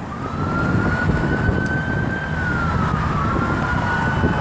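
Emergency vehicle sirens wailing, two of them overlapping: one tone rises slowly then sweeps down, while a second rises and holds, over the low rumble of vehicle engines.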